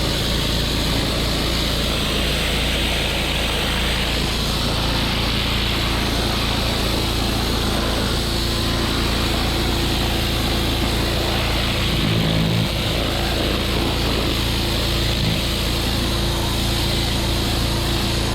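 Pressure washer's engine running steadily under load, with the hiss of its high-pressure water spray.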